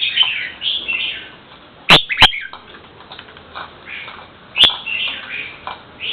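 A bird calling in short, repeated chirps that glide downward in pitch, with three sharp clicks, two close together about two seconds in and one more near the end.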